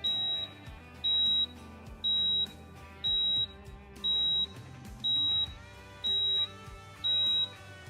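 Electronic beeper sounding one high-pitched beep about every second, about half a second each, eight times, over the low steady running of the compact tractor's engine.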